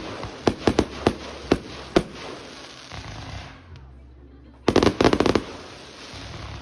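Aerial fireworks going off: a string of sharp bangs with crackle over the first few seconds, then a dense volley of rapid reports about five seconds in.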